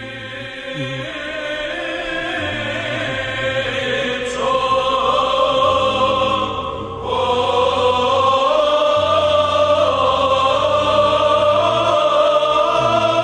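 Byzantine chant sung by a choir, a slowly moving melody held over a low sustained drone (ison), with a short breath pause about seven seconds in.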